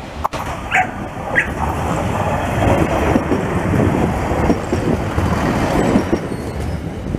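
Siemens Desiro diesel multiple unit passing close by: its running noise and wheel rumble build to a peak midway and ease off near the end. A dog barks twice about a second in.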